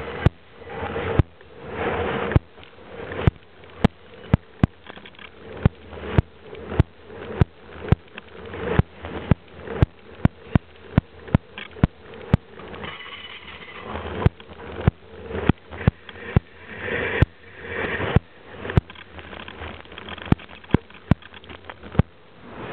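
Freight train rolling past close by: the cars rumble steadily while the wheels click over the rail joints, about two sharp clicks a second.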